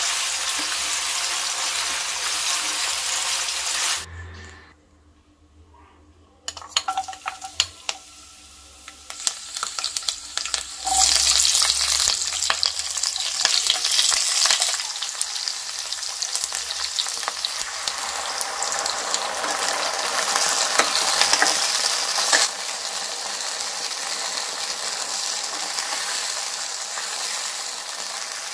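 Food frying in a non-stick pan, stirred with a wooden spatula: first masala-coated chicken pieces, then, after a short quiet break, chopped onion and capsicum sizzling loudly in hot oil with scraping and clacks of the spatula. The sizzling drops somewhat in the last few seconds.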